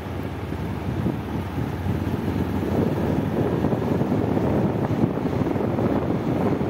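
Motorcycle running along at road speed, its engine rumble mixed with steady wind buffeting on the microphone.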